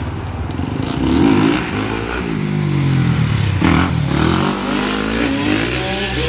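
Dirt bike engines revving, their pitch repeatedly rising and falling, with more than one engine heard at once around the middle.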